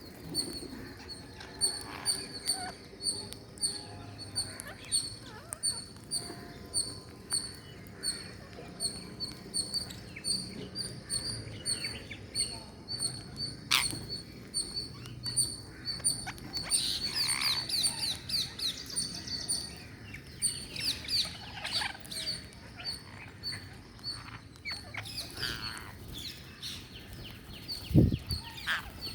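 Small parrots chirping: a short high chirp repeats about twice a second, with a denser burst of other chirps and calls midway. A sharp click about halfway through and two low thumps near the end.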